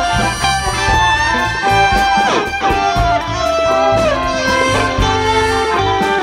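Live free-jazz big band playing loudly: electric guitar and horns over bass and a steady drum beat. A few notes slide downward about two and a half seconds in.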